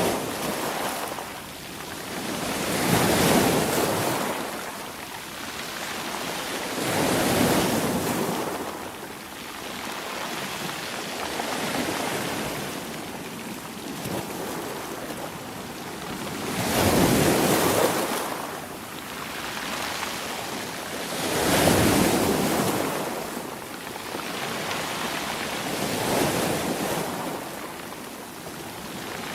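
Sea waves breaking and washing in, one surge of surf every four or five seconds, rising and falling away. The biggest breaks come about three, seven, seventeen and twenty-two seconds in.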